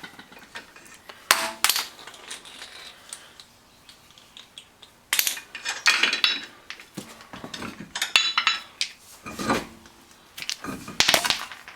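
Irregular metallic clinks and clatters of tools and loose metal parts being handled on a car's wheel and brake. Scattered sharp knocks come in clusters throughout.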